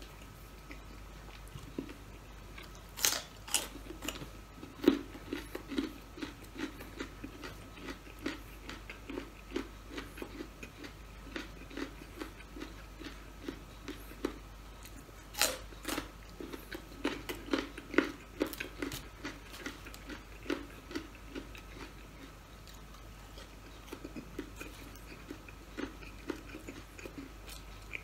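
A person biting and chewing food close to the microphone: sharp crunchy bites about three seconds in and again about halfway, one of them into a raw carrot stick, with steady chewing at about two chews a second in between.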